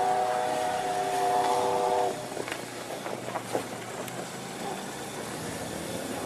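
Steam whistle of a C2 narrow-gauge steam locomotive sounding a steady chord of several notes, which cuts off about two seconds in. After it comes a low steady background with a few faint knocks.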